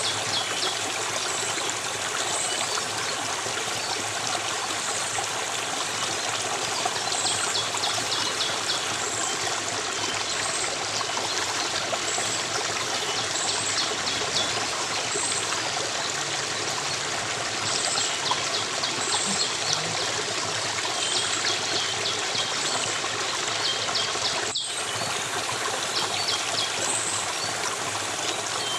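Stream flowing steadily, with small birds chirping over it: a short high note repeating about every two seconds and bouts of rapid chirps. A momentary break in the sound about 25 seconds in.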